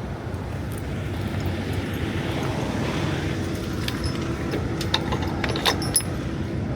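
Diesel semi-truck engine idling with a steady rumble and hum, with a few sharp clicks about four to six seconds in.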